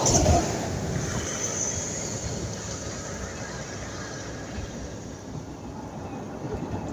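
Private jet flying over, a steady rushing noise that slowly fades as it moves away.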